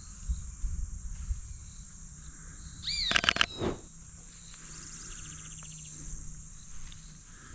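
Rainforest insects keeping up a steady high-pitched drone, with a few low knocks of handling early on and a short burst of sharp clicks about three seconds in.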